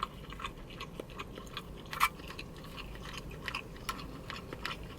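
A person chewing tandoori chicken close to the microphone: irregular small wet clicks and smacks of the mouth, with one sharper click about two seconds in.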